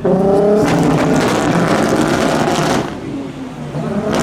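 Modified car's engine revving hard and accelerating away, loud, easing briefly near three seconds in before picking up again.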